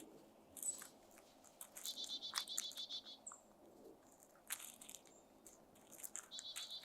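Small birds calling: two chattering runs of rapid high notes, one about two seconds in and another near the end, with short high chirps between and scattered sharp clicks. No crow caws.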